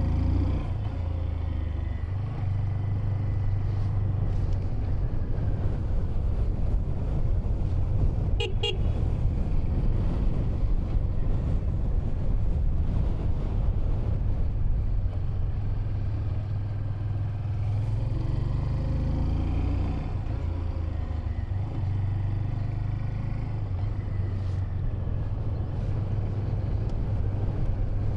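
Honda 125cc motorcycle engine running as the bike is ridden at low speed, the engine note rising and falling with throttle. A brief horn toot sounds about eight seconds in.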